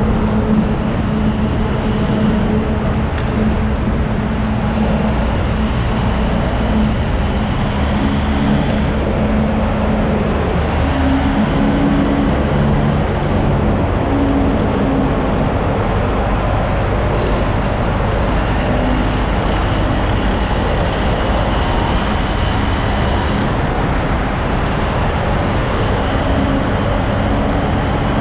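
Motorcycle riding on the road: a steady rush of wind and road noise with the engine hum underneath, its pitch stepping up and down now and then.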